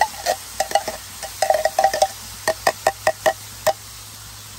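Reuben fillings (meat, cheese and sauerkraut) frying on a hot Blackstone flat-top griddle: a steady sizzle with clusters of sharp grease pops that die away near the end.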